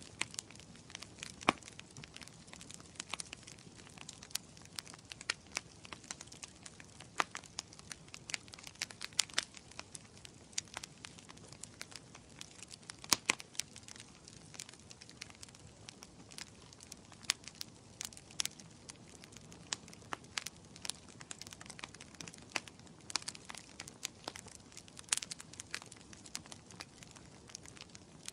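Wood fire crackling in a fireplace: irregular sharp pops and snaps over a low, steady hiss.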